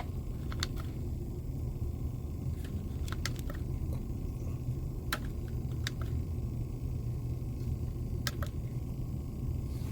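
Small USB desk fan running, its airflow buffeting the microphone as a steady low rumble, with a few faint clicks.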